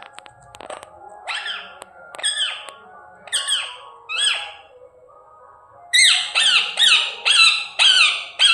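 Pet parrot squawking: a few separate calls, each falling in pitch, then a fast run of about six louder squawks near the end.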